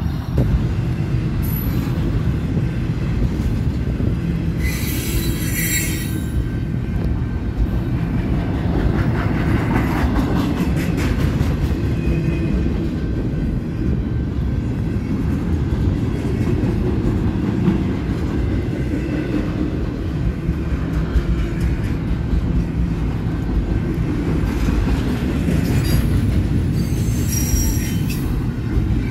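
Double-stack intermodal freight train's container well cars rolling past: a steady low rumble of steel wheels on rail, with high wheel squeals about five seconds in and again near the end, and a run of clacks over the rail in between.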